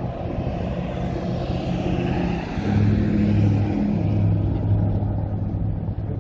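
A motor vehicle passing close by on the street. Its engine hum and tyre hiss swell to their loudest a little before halfway through, then ease off.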